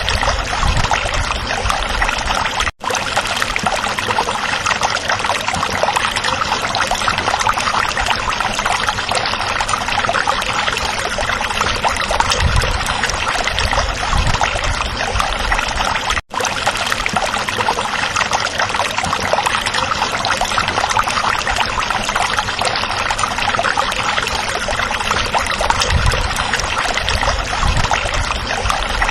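Small stream running over rocks: a steady rushing and trickling of water with occasional low gurgles. The sound cuts out for a split second twice, about three seconds in and again after about sixteen seconds.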